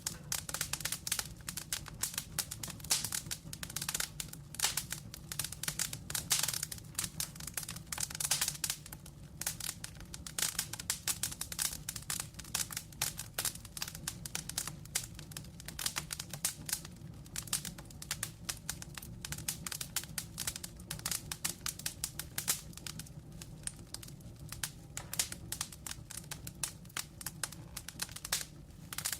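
Wood fire burning, with dense irregular crackling and popping over a low, steady rumble of flame.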